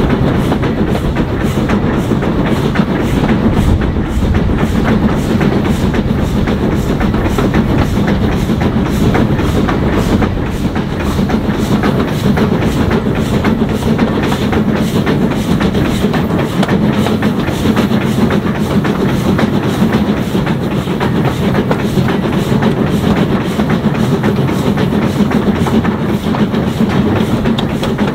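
Train running steadily along the line, wheels clicking over the rail joints.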